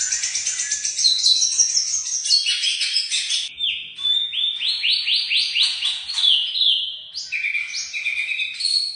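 White-rumped shama (murai batu) singing a continuous, varied song: fast runs of repeated high notes, then a series of quick downward-sweeping whistles about the middle, with the phrases changing every second or two.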